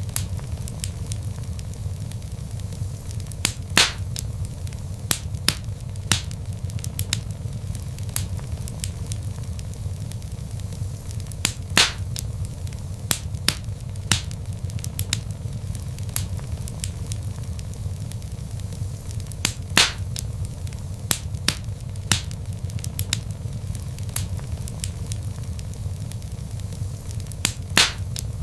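Wood fire burning in a fireplace: logs crackling and popping at irregular intervals over a steady low rumble of flames, with a few louder sharp pops.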